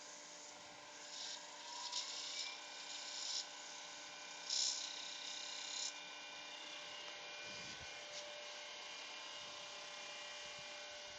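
Wood lathe motor running with a steady hum, while sandpaper hisses against the spinning spalted beech box in a few passes between about one and six seconds in; after that only the lathe hum remains.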